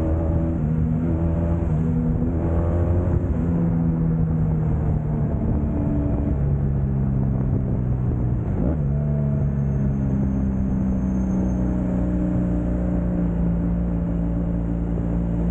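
Motorcycle engine running at highway speed, its pitch shifting in steps as the throttle and gears change, with a brief dip and recovery about halfway through, over steady low road and wind rumble.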